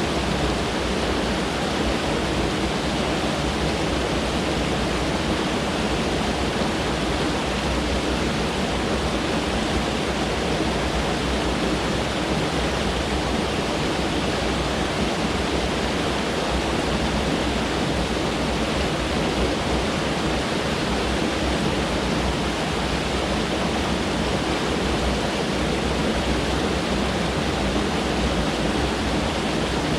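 Mountain stream rushing over rocks: a steady, even roar of flowing water with no change.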